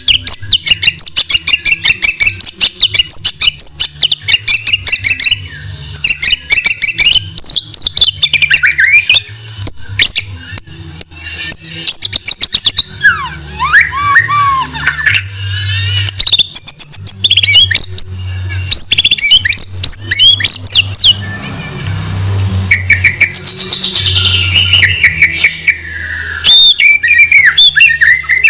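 White-rumped shama (murai batu) singing a loud, varied song: fast rattling runs of rapidly repeated notes alternating with whistled phrases that sweep up and down in pitch.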